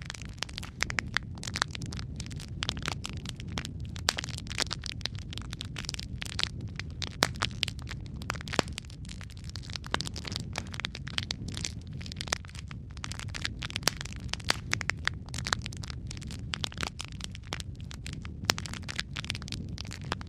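Wood fire burning in a fireplace: dense irregular crackles and sharp pops over a steady low rumble of the flames.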